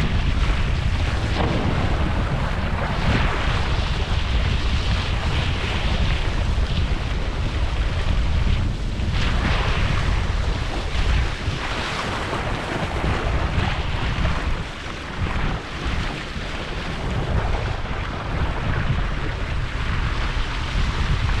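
Wind buffeting the microphone with a steady low rumble, over water splashing and rushing.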